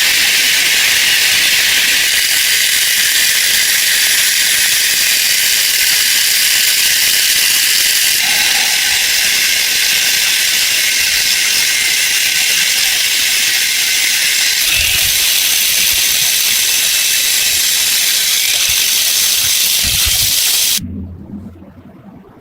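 Loud, steady high-pitched hiss that cuts off suddenly near the end, with a few faint low knocks underneath.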